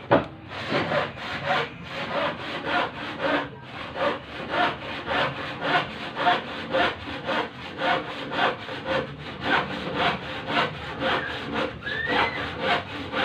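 Rhythmic back-and-forth rasping strokes of a hand tool, about two to three a second, with a brief rising squeak near the end.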